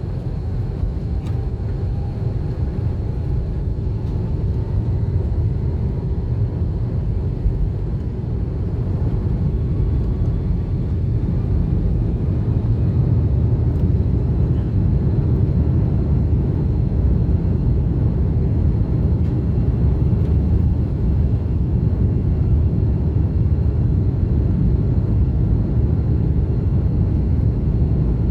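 Jet airliner taking off: a steady, loud low rumble of engines and airflow that grows a little louder over the first dozen seconds, with a faint whine rising in pitch early on.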